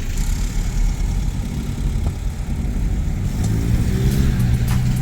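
A vehicle engine running with a low rumble, its note rising over the last second and a half.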